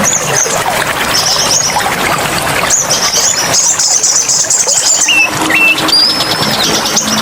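Small songbirds chirping in quick high-pitched runs over the steady rush of flowing water, with a few short whistled notes near the end.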